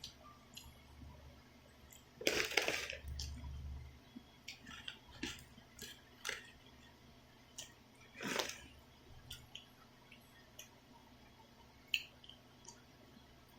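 Slurping of instant black bean ramyun noodles, a long slurp about two seconds in and another about eight seconds in, with wet chewing and small scattered clicks in between.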